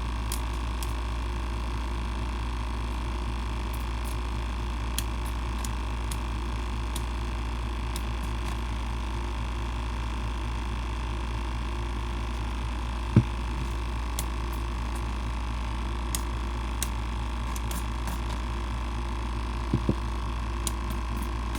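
Small battery-powered Baby Bubbles bait aerator pump humming steadily while it pressurizes a nitro RC engine's fuel tank for an air-leak test. Scattered light clicks of handling, with a sharp knock about 13 seconds in and two quick knocks near the end.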